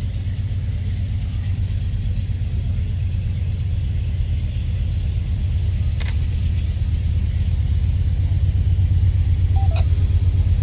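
Freight train's diesel locomotives running, a steady low engine rumble that grows slightly louder toward the end as they approach.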